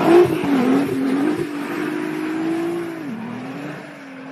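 Nissan GT-R's 3.8-litre V6 engine revving up and down as the throttle is worked through a drift. About three seconds in it drops to a lower, steadier note and grows quieter. A tyre hiss dies away within the first second.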